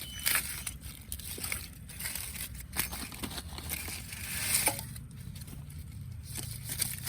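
Wood campfire crackling, with irregular sharp pops and a brief hiss swelling about four seconds in, over a steady low rumble.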